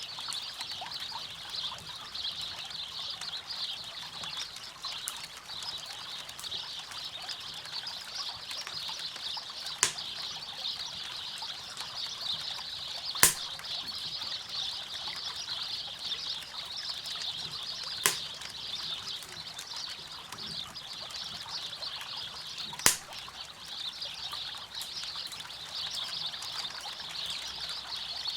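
River water running steadily, with four sharp pops from a wood campfire over it.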